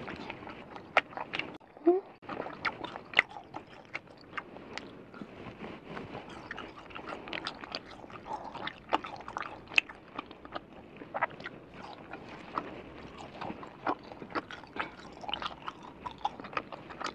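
Close-miked chewing of Chinese spicy gluten strips (latiao): irregular wet mouth clicks and smacks as the strip is bitten and chewed.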